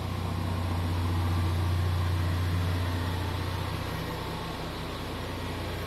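2017 Ford Mustang EcoBoost's turbocharged 2.3-litre four-cylinder idling through a muffler-delete exhaust with 3-inch pipes: a steady low drone, a little louder a second or two in.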